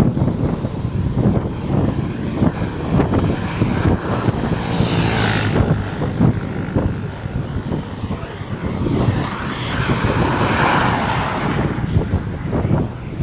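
Wind buffeting the microphone, with two vehicles passing by on the highway: one swells and fades about five seconds in, another around ten seconds.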